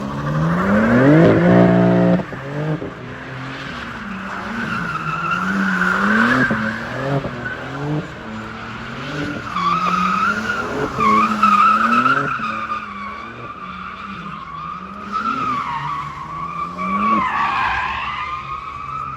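A car spinning in circles, with its tyres screeching continuously in a wavering tone. Its engine climbs hard for the first two seconds and cuts back sharply, then revs up and down about once a second as the driver holds the spin on the throttle.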